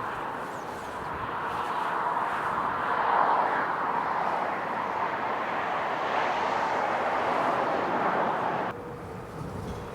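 Jet aircraft engine noise swelling over a few seconds, holding steady, then stopping abruptly near the end.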